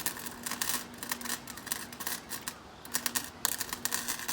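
Electric arc welder crackling as a weld is laid on a cracked cast distributor bracket, in two runs with a brief break about two and a half seconds in, over a low steady hum.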